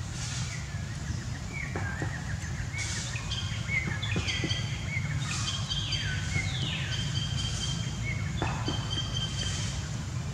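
Birds chirping and calling in short high notes, some held briefly and a few sliding downward, over a steady low rumble of background noise, with a few faint clicks.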